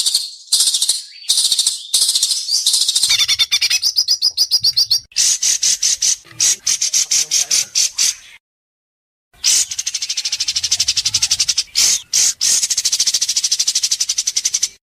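White-rumped shama (murai batu) singing sharp, very fast rattling trills (besetan). Short phrases give way to long runs of rapid repeated notes, broken by a gap of about a second midway, and the song cuts off abruptly at the end.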